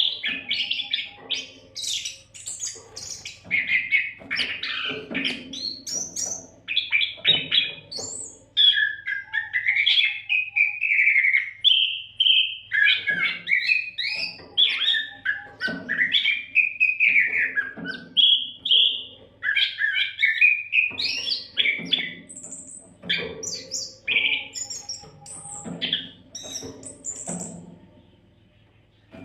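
Oriental magpie-robin (kacer) singing a continuous, varied song of loud whistles, sliding notes and rapid chirps, over a faint low hum. The song drops off briefly near the end.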